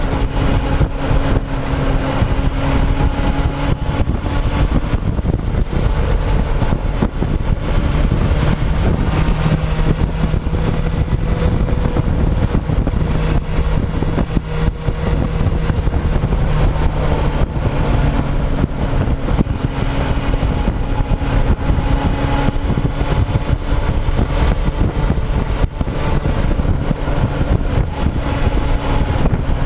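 Motorcycle engine running while under way, picked up by a camera mounted on the fuel tank: a loud, continuous rumble. The engine note changes pitch a couple of times as the revs change.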